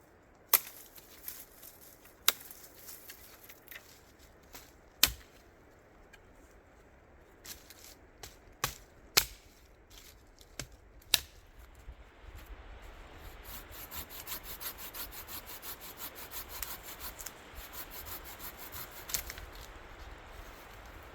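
Wood being handled and worked: a handful of sharp wooden knocks a few seconds apart, then from about halfway a steady, rapid scraping and crackling.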